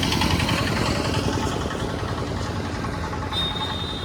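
A truck's engine idling with a steady low rumble; about three seconds in, a thin steady high-pitched tone joins it.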